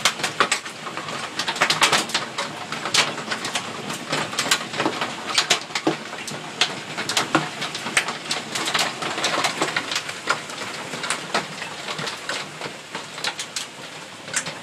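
Heavy hail pelting down: a dense, irregular rattle of hard stones striking, with a steady hiss of the downpour beneath and some sharper, louder hits standing out.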